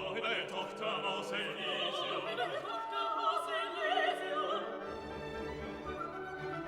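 Orchestral classical music with operatic singing in wide vibrato for the first four and a half seconds or so; after that the orchestra carries on with a fuller low end.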